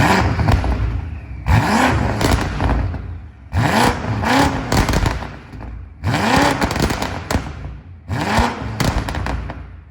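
V8 engine with an aftermarket-tuned exhaust blipped four times, each rev rising and falling back, with crackling pops from the exhaust as the revs drop.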